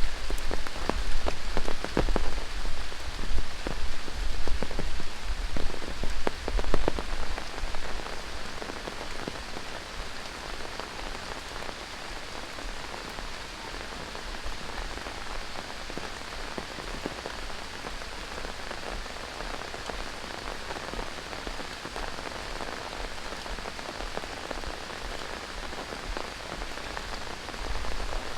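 Tropical rain falling. For the first eight seconds or so, loud close drop impacts and a low rumble stand out; after that the rain settles into a steadier, quieter hiss, and the rumble comes back near the end.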